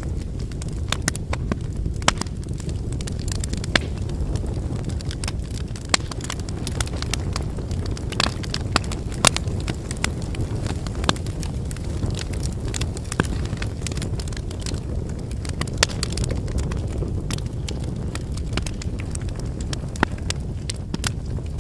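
Wood campfire burning: a steady low rumble of flames with frequent sharp, irregular crackles and pops from the burning logs.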